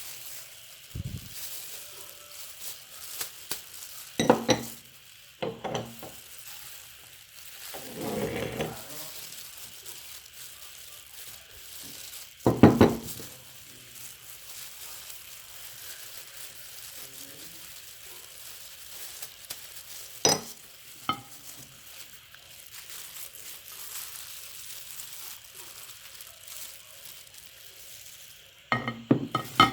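Meat grinder working through banana: soft squishing and crackling over a steady hiss, with scattered knocks and clinks, the loudest knock about twelve seconds in.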